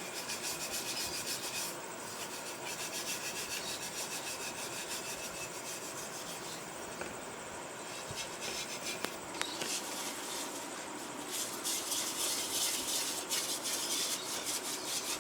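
Wire scouring pad scrubbed hard over a wet clay budgie breeding pot in rapid back-and-forth strokes, getting louder in the last few seconds. The pot has been soaked so the droppings stuck to it are soft and being scoured off.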